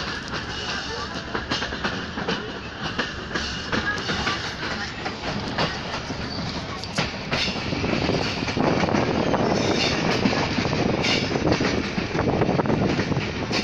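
Passenger train running on the track, heard from a coach's open window or door: steady rumble of the wheels with repeated sharp clicks over the rail joints. It grows louder about eight seconds in.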